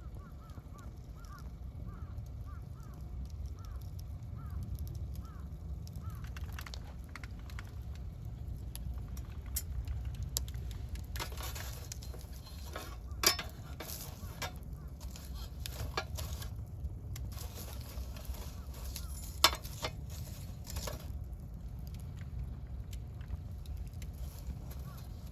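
Wood campfire crackling, with scattered small snaps and two sharp, louder pops about 13 and 19 seconds in, over a steady low rumble.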